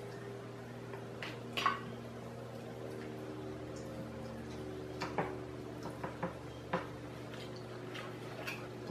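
Scattered clicks, knocks and wet squishing of crab and lobster shells being picked and pulled apart, over a faint steady hum.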